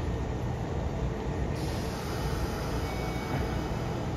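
Steady rumble and hum of Kintetsu electric trains standing at a station platform.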